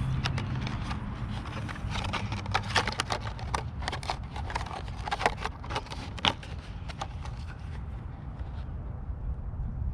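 Irregular clicks, knocks and scrapes of hands fitting the plastic canopy onto an RC helicopter, thickest in the middle few seconds. A low hum fades out in the first few seconds.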